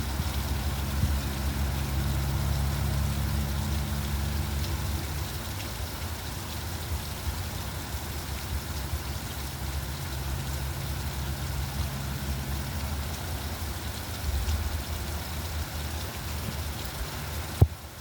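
Steady rain hiss with a vehicle engine idling close by, a low hum that fades and returns. A single sharp click just before the end.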